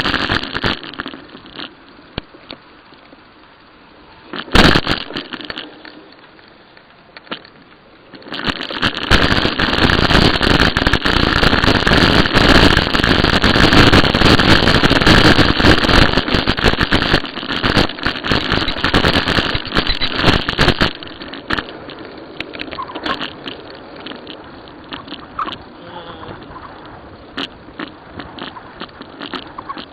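Riding noise from a moving bicycle: a steady rushing rumble that turns much louder and rougher from about 8 to 21 seconds in, with a sharp knock about four and a half seconds in.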